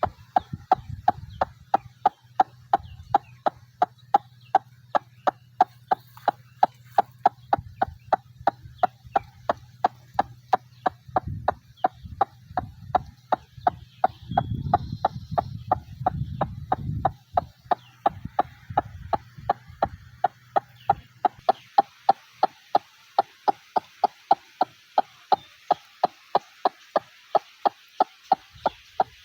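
White-breasted waterhen calling: one short note repeated monotonously, about three times a second, without a break.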